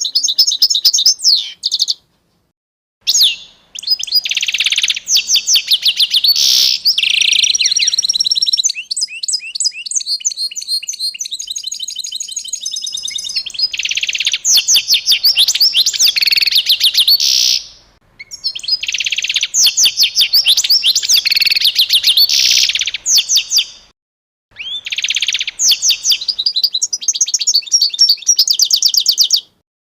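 Songbird singing in long, fast runs of high chirps and trills, broken by a few sudden cuts to silence.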